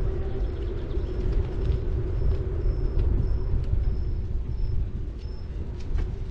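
Riding noise from a city bike filmed on a bike-mounted action camera: a heavy low rumble of wind and road against the microphone and the steady hum of tyres rolling on pavement. Short high-pitched tones recur about every half second, with a few faint clicks.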